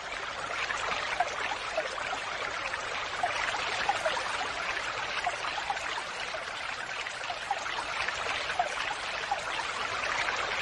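Falling water splashing steadily, a hiss centred in the mid and upper range, with small droplet plinks now and then.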